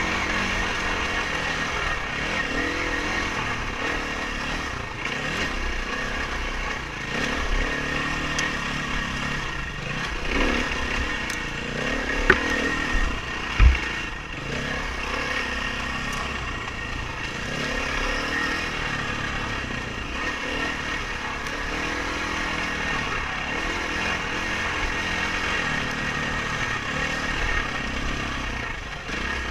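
Dirt bike engine running under way, its revs rising and falling continuously as the bike is ridden over rough ground. Two short sharp knocks come about halfway through.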